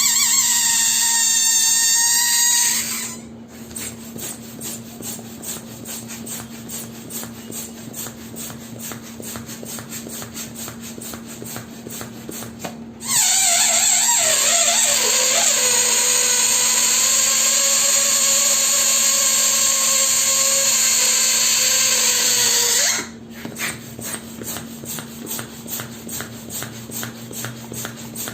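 Balloon letting air out through its stretched neck: a high, wavering squeal for the first three seconds that stops sharply. About ten seconds later a second, longer squeal starts, drops in pitch over its first couple of seconds, then holds steady with a hiss for about eight seconds before cutting off abruptly.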